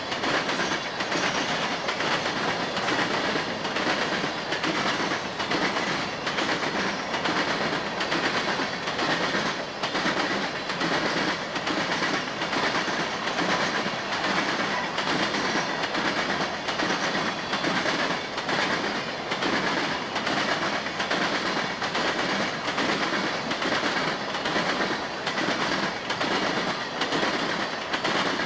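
Florida East Coast Railway freight train of open-top hopper cars rolling past, its wheels clicking over the rail joints in a steady, even rhythm over a continuous rumble of the cars.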